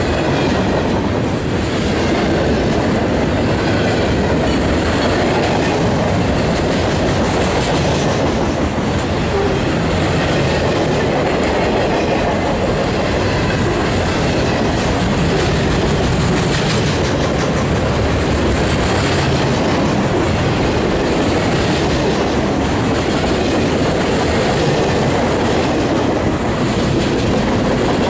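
A manifest freight train's cars rolling past at close range: a steady rumble of steel wheels on rail, with clicking as the wheels cross rail joints.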